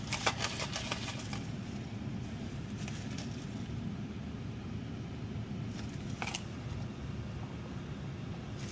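Steady low rumble of a car interior, with a few short crackling rustles in the first second and another one about six seconds in.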